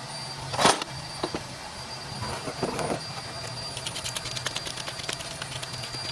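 Metal work sounds at a truck wheel hub over a steady low hum: one sharp metallic knock, a short scrape, then a run of rapid light ticks.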